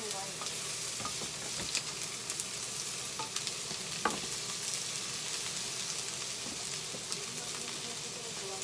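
Garlic and sliced onions sizzling in hot oil in a frying pan while being stirred with a ladle, the utensils clicking and scraping against the pan, with one sharper knock about four seconds in.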